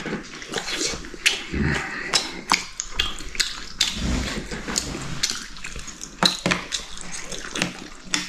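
Chopsticks and dishes clinking during a meal: scattered sharp clicks and knocks of tableware, with quieter eating sounds between them.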